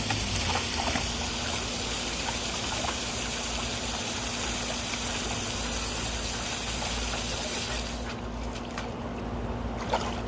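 Water gushing steadily, cutting off suddenly about eight seconds in, over a steady low hum; a few faint clicks follow.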